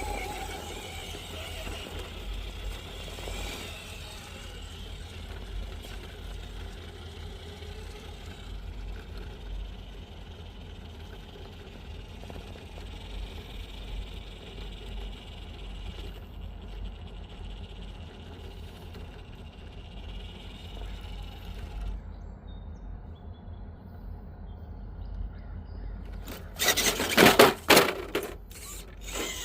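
Electric motor and geared drivetrain of a radio-controlled rock crawler whining faintly as it crawls over rock, the whine coming and going. Near the end, a couple of seconds of loud knocks and rustling.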